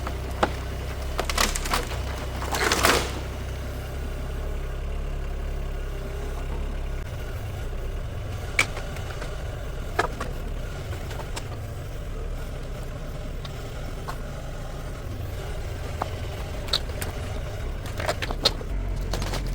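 Mini excavator's diesel engine running steadily, with scattered sharp knocks and cracks of wood and debris, loudest as a cluster of cracking about two to three seconds in and again near the end.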